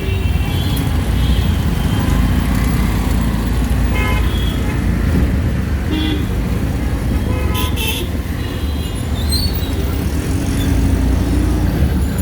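Busy street traffic heard from a moving auto-rickshaw: a steady low engine and road rumble, with vehicle horns honking several times, around four, six and eight seconds in.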